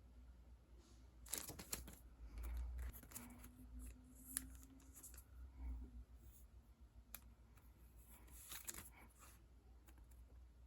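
Faint handling of sticker sheets and their plastic packaging: a few short rustles and crinkles, about a second in, near the middle and again near the end.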